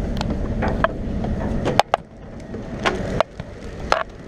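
Wind rumbling across the microphone on a ferry's open deck, cutting out briefly twice, with several scattered knocks and clicks.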